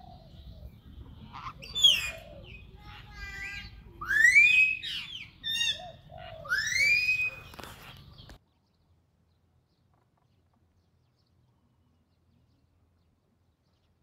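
Bird calls: several loud rising whistled notes and a quick run of short notes, over a low rumble. The sound cuts off abruptly about eight seconds in, leaving near silence.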